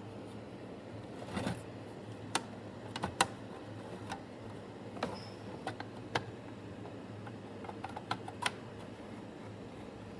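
Scattered light clicks and taps, about ten of them at irregular spacing, from handling the metal power supply case and its screws.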